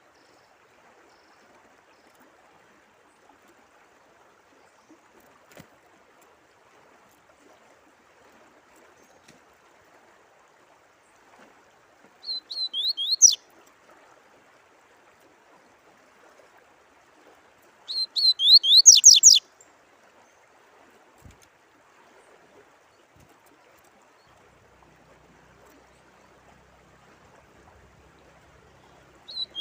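A songbird singing short, quick phrases of rapidly repeated descending notes: two phrases about five seconds apart, and a third starting at the very end. Under it runs a steady, faint sound of running water.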